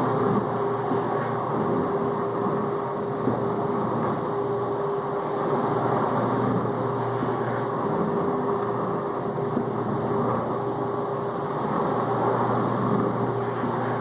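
Whirlpool dishwasher circulating water in its final rinse: the wash pump runs steadily and sprays water around the tub, a constant hum with one held tone over a wash of water noise.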